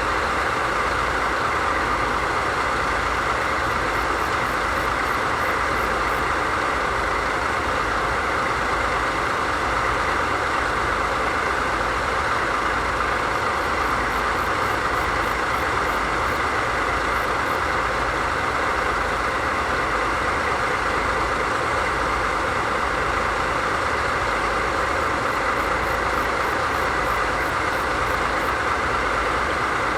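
JNR Class DD51 diesel-hydraulic locomotive's V12 diesel engines running steadily at idle.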